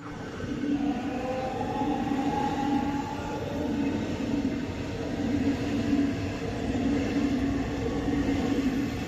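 Berlin S-Bahn electric train running through the station: a steady rolling rumble with a pulsing beat, and an electric motor whine that glides in pitch during the first few seconds and then fades.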